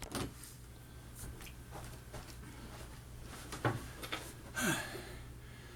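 Quiet room with a steady low hum and a few scattered clicks and knocks, the loudest about three and a half seconds in, and a brief falling tone near the end.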